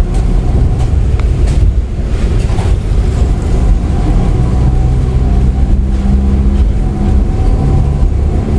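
Hong Kong double-decker tram running: a heavy low rumble with a steady hum on top.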